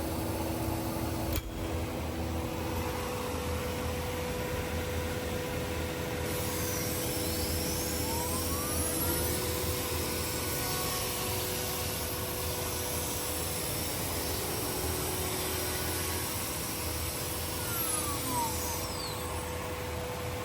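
CNC panel router running, with a steady machine hum and hiss. About six seconds in, a rising whine comes in as the motors speed up. Near the end the whine falls away as they slow down.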